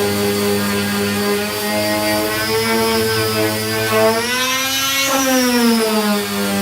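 Electric power sander with a 240-grit disc running steadily on body filler. Its motor pitch rises for about a second, a little past the middle, then drops back to its earlier speed.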